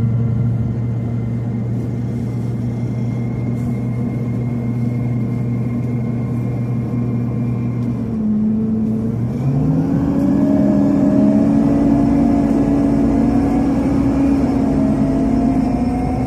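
Scania CN270UB city bus with a compressed natural gas engine, heard from inside the cabin: the engine runs at a steady low speed for about eight seconds, then the bus pulls away and the pitch rises as it accelerates.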